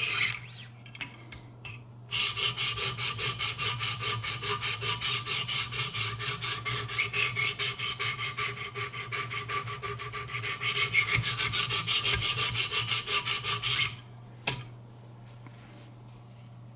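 Abrasive paddles of a Wicked Edge guided sharpener stroked along a steel knife blade (Benchmade 725 Kodiak Skinner), a fast, even run of scraping strokes at about five a second. The strokes start about two seconds in and stop a few seconds before the end, with a low hum underneath.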